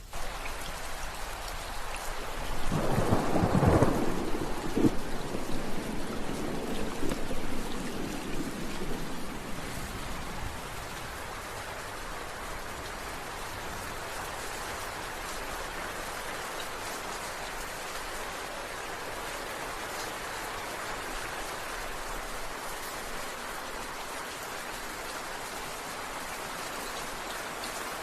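Steady rain falling, with a roll of thunder that rumbles in about two or three seconds in and dies away by about ten seconds, leaving the rain alone.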